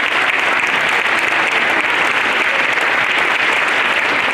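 Audience of schoolchildren applauding in a hall, a steady loud round of clapping.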